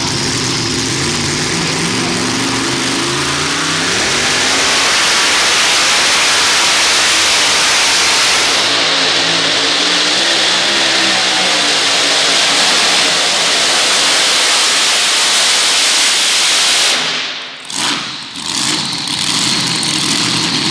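Competition pulling tractor engine at full throttle during a pull, rising in pitch over the first few seconds and then running flat out. It drops off sharply near the end, then runs lower and steadier.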